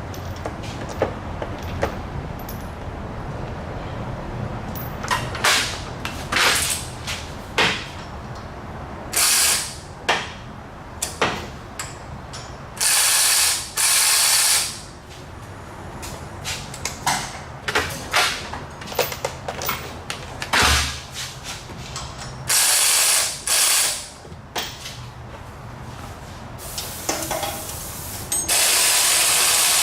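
Hand tools working on exhaust manifold bolts: a ratchet clicking with scattered metal clinks, broken by several one-to-two-second bursts of hissing, typical of an air tool running.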